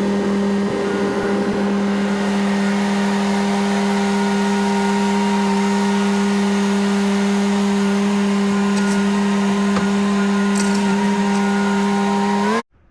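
Skid steer engine running at a steady speed with a constant droning hum. The pitch rises slightly just before the sound cuts off abruptly near the end.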